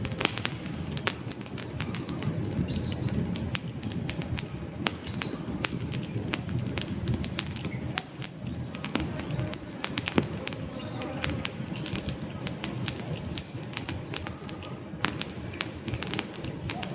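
Wood campfire burning: a steady rushing flame sound with frequent sharp crackles and pops from the logs, a few of them louder snaps.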